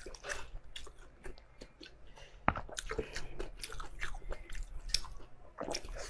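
Close-miked chewing and biting of braised pork: irregular wet clicks and crunches of the mouth working, with one sharper click about two and a half seconds in.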